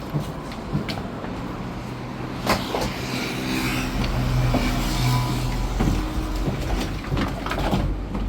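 Truck running while driving, with frequent knocks and rattles from the vehicle body; the engine note grows louder about three to four seconds in, then eases off.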